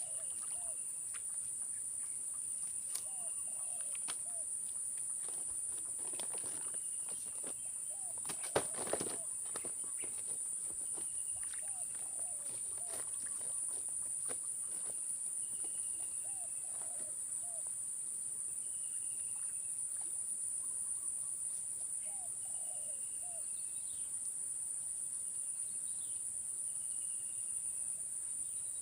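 Steady high-pitched insect drone, crickets or cicadas, with short bird calls repeating every couple of seconds. A couple of sharp clicks sound about eight or nine seconds in.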